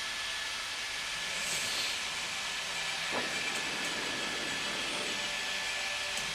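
Steady hissing noise of a news helicopter in flight, its turbine and rotor noise picked up through the reporter's open microphone, with a faint tone falling about three seconds in.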